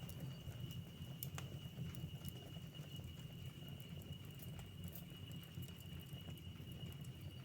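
Wood fire in a fireplace crackling, with scattered sharp pops over a low steady rumble from the flames; one pop about a second in is louder than the rest.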